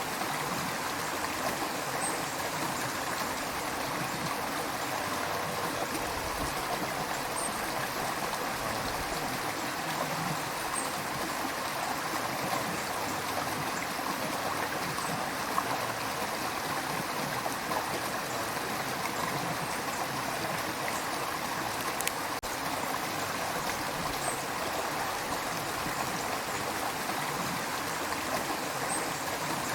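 River water flowing steadily over stones, an even rush with small splashes and gurgles here and there.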